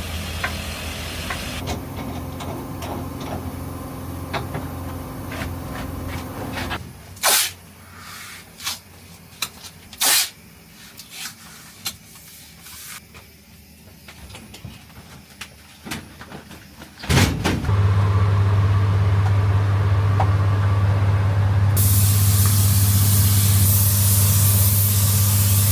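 Workshop machinery humming steadily, then stopping for a stretch of knocks and clicks as parts are handled. About two-thirds of the way through, a loud steady machine hum starts, and a few seconds later a loud hissing spray joins it.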